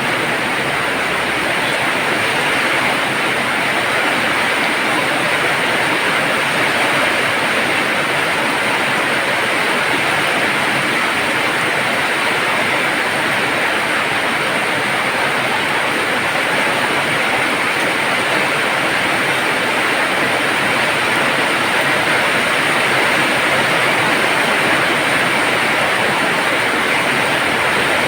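Heavy rain pouring down steadily, a loud, even rushing hiss with no let-up.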